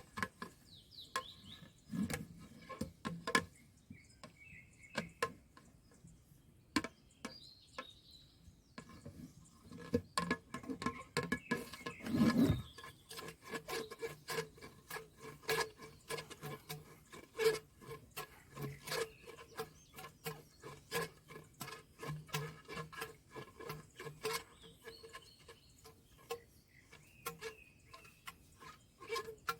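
Irregular rubbing, scraping and clicking of hands working over a water tank filter as it is cleaned.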